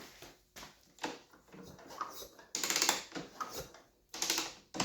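A 2006 KTM 125 SX two-stroke engine turned over with its spark plug out, air rushing out of the plug hole in two loud puffs about a second and a half apart, with small clicks before them. This is a check of compression, and the engine shows only a little.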